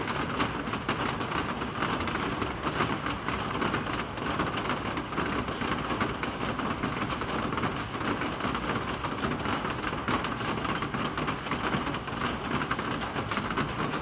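Steady rain falling, a dense, even hiss of countless drops striking a surface, holding level throughout.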